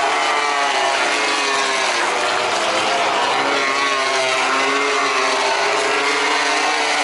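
MotoGP race bikes going past at race speed, several engines at once, their pitches rising and falling as they shift and pass.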